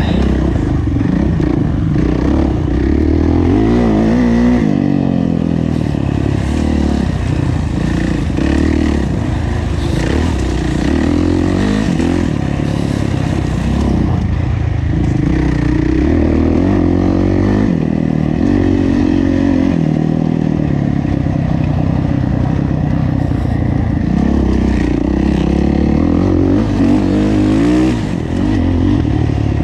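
Kawasaki KX450F's single-cylinder four-stroke engine running hard under racing load, the revs rising and falling again and again as the throttle is worked. It briefly drops off just before the end.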